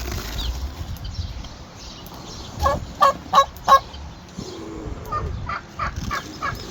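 Turkey calling: four loud, sharp notes in quick succession about two and a half seconds in, then a faster run of softer notes near the end.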